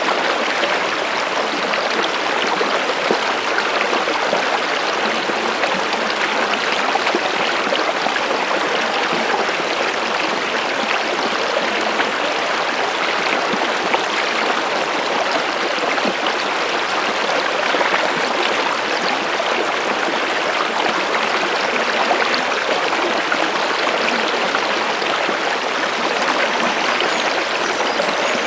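Water of a stream running steadily, an even unbroken rush with no single splashes standing out.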